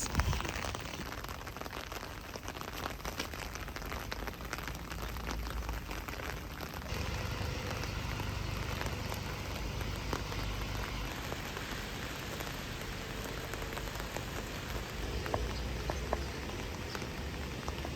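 Steady rain falling, with many close drops ticking sharply. A low rumble grows louder about seven seconds in.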